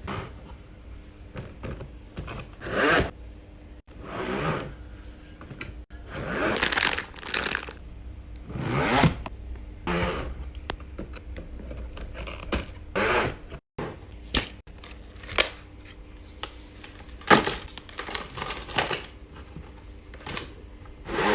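Close-up handling of small packaging items: intermittent rustling and scraping swells with light taps and clicks between them, in short separate bursts.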